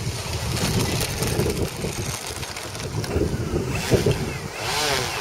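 Strong wind buffeting the microphone, with the whine of the FMS Sbach 342's electric motor coming in about three and a half seconds in, swinging up and down in pitch as the plane flies its passes.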